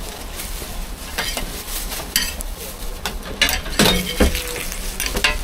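Food frying and sizzling on a hot cooking surface, with repeated short scrapes and clinks of a metal utensil.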